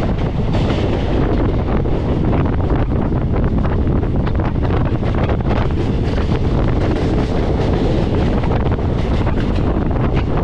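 Wind buffeting a microphone held outside a moving passenger train, over the steady rumble of the coach running along the track.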